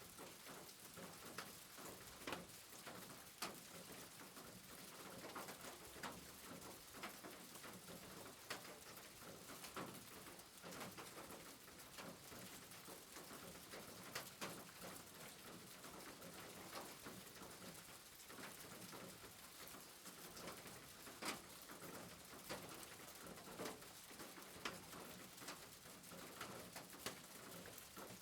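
Steady rain with many irregular drops pattering and dripping.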